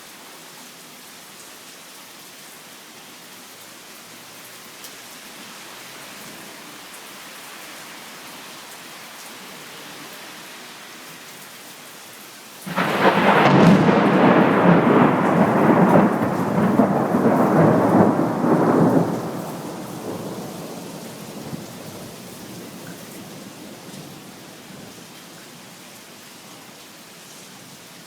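Steady rain falling. About halfway through, a sudden loud thunderclap breaks in and rumbles for about six seconds before fading back under the rain.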